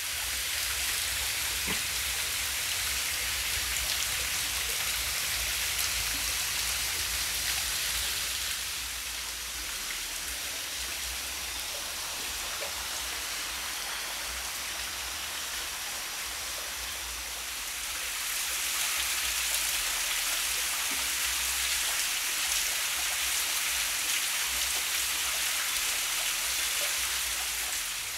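Waterfall's steady rush of falling water, a dense hiss over a low rumble. It eases slightly about eight seconds in and swells again around eighteen seconds.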